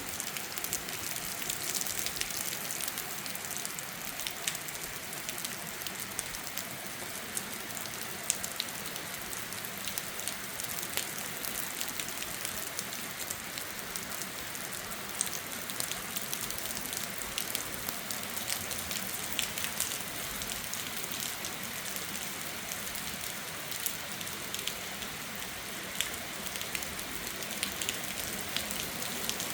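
Heavy thunderstorm rain falling steadily, a constant hiss with many separate drop hits on hard surfaces close by.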